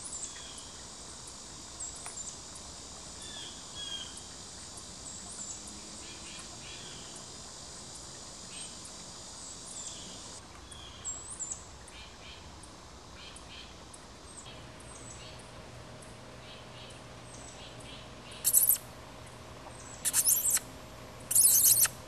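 Small birds chirping now and then over a steady faint outdoor hiss. Near the end come three loud, short bursts of high hiss, the loudest sounds here, from a source that cannot be named.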